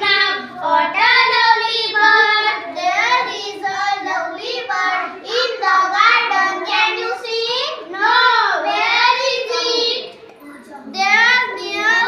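Children singing in high voices, an action song or rhyme, with a brief pause about ten seconds in.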